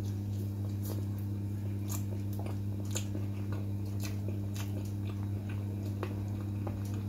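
A person biting into a peri peri chicken wing and chewing it, with scattered short crunchy clicks, over a steady low hum.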